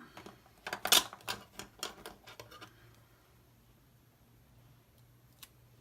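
Paper sticker sheets and a planner page being handled: a cluster of crinkly rustles and small clicks in the first few seconds, loudest about a second in, then almost still with one small tick near the end.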